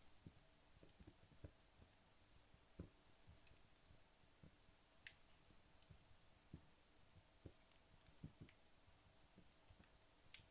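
Faint, sparse crackling of a wood fire that has nearly burnt down: soft low pops with a few sharper ticks, the clearest about five seconds in and another a little past eight seconds.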